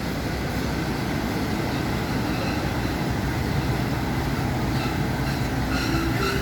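Passenger train running, heard from aboard: a steady rumble of wheels on the rails. Thin squealing tones come in near the end as the train nears the station.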